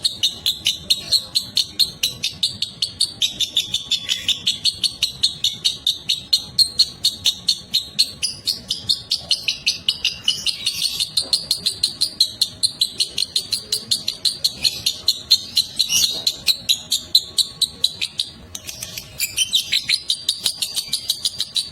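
Lovebird singing its long 'ngekek' chatter: an unbroken string of sharp, high chirps at about four to five a second, with a brief break near the end.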